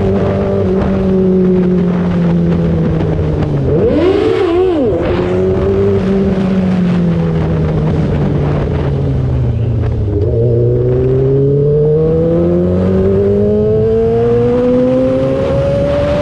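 2003 Yamaha R6's 600 cc inline-four engine under way. Its note sinks slowly as the revs drop, with a quick rev up and down about four seconds in. It keeps falling until about ten seconds in, then rises steadily as the bike accelerates.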